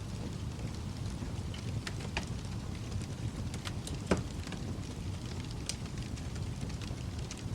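Wood fire in a fireplace crackling: a low steady rush of flame with scattered sharp pops and snaps, one louder pop about four seconds in.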